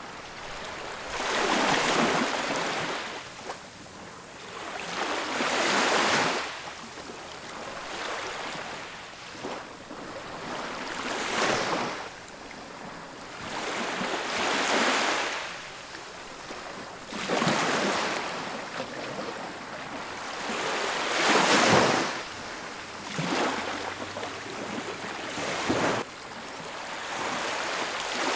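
Ocean surf breaking and washing up on a beach, coming in repeated surges of rushing water every three to four seconds.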